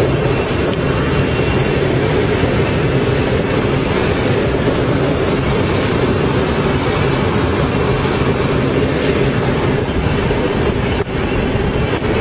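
Steady rush of airflow in and around a small plane's cabin as it glides with its engine seized and its propeller stopped, with no engine running.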